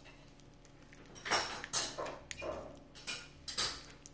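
Toy blind-bag packaging and small plastic toy pieces being handled and opened: a handful of short crinkling, clicking sounds.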